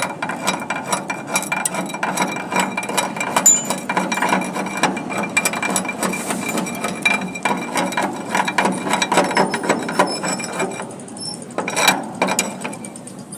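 Electric arc welding: the arc crackles in a dense, continuous stream of sharp clicks for about eleven seconds, then thins out near the end.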